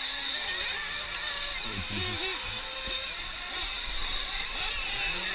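Nitro RC truck engines running on the track, a high, wavering whine that rises and falls as the trucks throttle.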